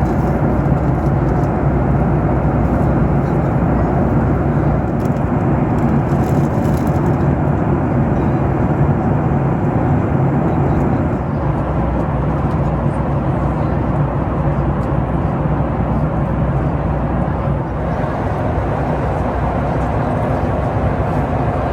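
Steady in-flight cabin noise of a Boeing 737-9 MAX airliner: an even rush of airflow and jet engine sound with a low steady hum, dipping slightly in level near the end.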